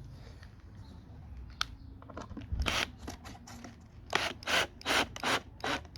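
Short rasping strokes on wood: a faint one or two early, a louder one about three seconds in, then four in quick succession in the second half.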